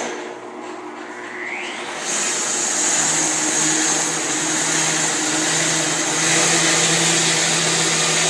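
Bandsaw mill starting and running: a rising whine as it spins up, then about two seconds in a louder, steady machine noise with a low hum underneath.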